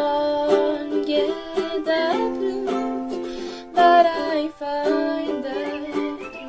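Ukulele playing a slow song, its chords strummed in a steady rhythm.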